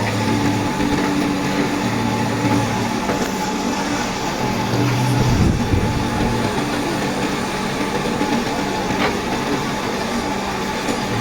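A heavy diesel vehicle's engine running steadily, with a low hum that swells and drops back every second or two.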